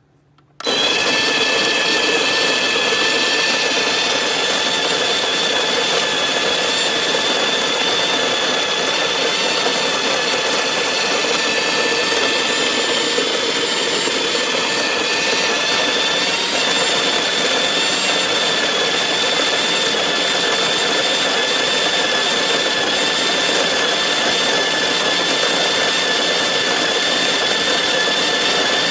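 Ollygrin electric conical burr coffee grinder switching on about half a second in and grinding beans with a steady, loud motor whine.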